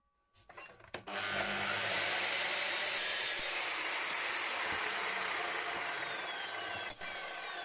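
Power saw cutting steel angle iron: a loud, steady cutting noise that starts suddenly about a second in and runs on, with a brief drop near the end.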